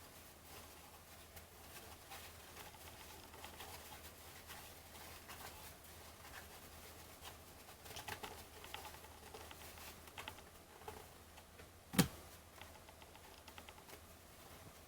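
Faint ticking and light rustling of 1989 Fleer baseball cards being flipped through by hand, with one sharp click late on.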